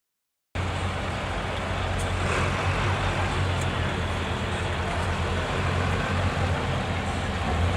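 Diesel engine of a MAN six-wheel-drive truck trial prototype running steadily with a deep, even drone.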